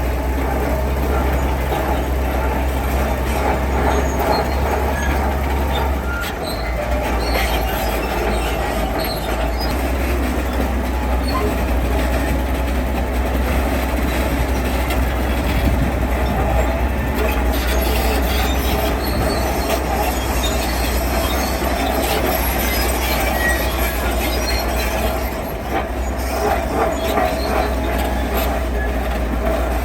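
Heavy diesel construction machinery running steadily, a constant low engine drone under metallic squealing and clanking, with brief dips about six seconds in and near the end.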